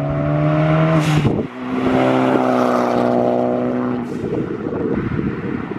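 Car with a loud aftermarket exhaust accelerating hard: the engine note climbs through one gear, breaks at a gear change about a second in with a short hiss, then climbs through the next gear until the driver lifts off about four seconds in, leaving rough, crackly running.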